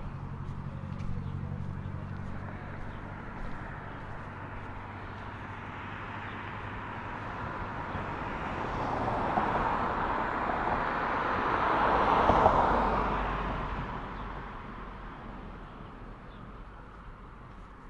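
A car drives past on a nearby road, its tyre and engine noise building to a peak about two-thirds of the way through, then fading away. A low engine hum is under the first few seconds.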